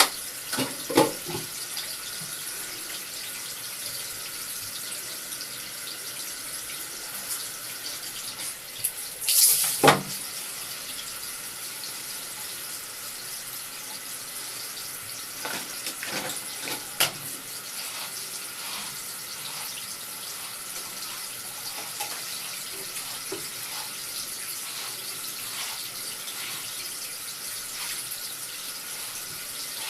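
Tap water running steadily into a sink or tub, with a brief louder noise about nine and a half seconds in and two shorter ones near sixteen and seventeen seconds.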